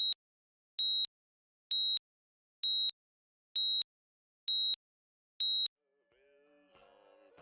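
Seven short, high electronic beeps, evenly spaced about one a second, then faint music fading in near the end.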